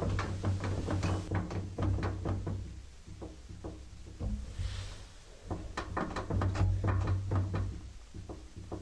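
Arçelik washing machine running, a low motor hum with irregular knocking and clattering over it as the drum turns. The hum fades around the middle and comes back, as the drum stops and starts again. This is the abnormal noise that the owner is asking about.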